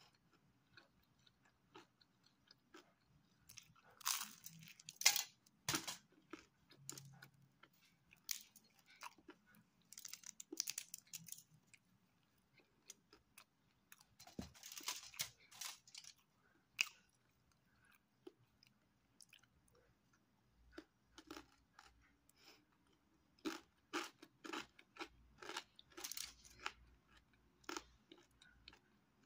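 A person chewing and crunching crisp pizza crust close to the microphone, in irregular clusters of crackling bites with quiet pauses between.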